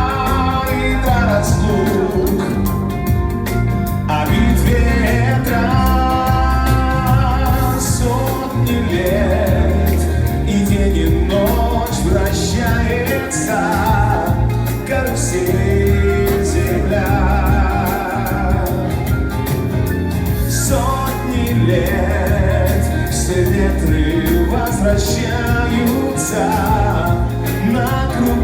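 A band playing a song live, with a singing voice carrying a wavering melody over bass and drums with regular cymbal strikes.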